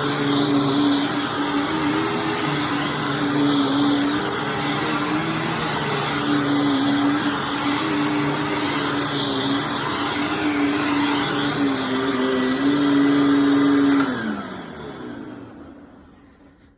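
Hoover WindTunnel Plus U5451-900 upright vacuum cleaner running with a steady motor whine whose pitch wavers slightly. Near the end it is switched off: the motor winds down, its pitch falling as it fades, and a short click follows.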